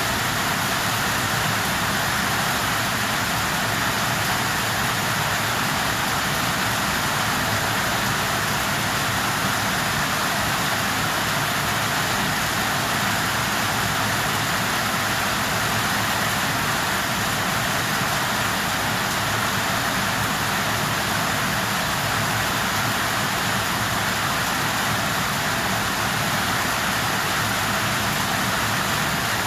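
Steady, even hiss of noise with no breaks or distinct events, strongest in the middle range.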